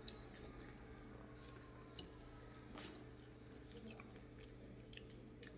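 Faint chewing and mouth sounds of someone eating pancit noodles with her fingers, with two small clicks about two and three seconds in, over a low steady hum.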